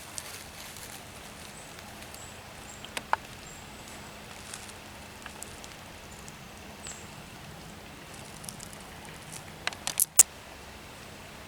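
Quiet outdoor ambience with faint scattered ticks and crackles, and a short cluster of sharp clicks about ten seconds in.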